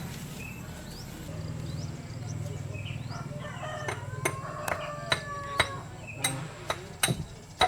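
A rooster crowing once in the background, about four seconds in, over a low steady hum. Sharp knocks come at uneven intervals, more of them in the second half.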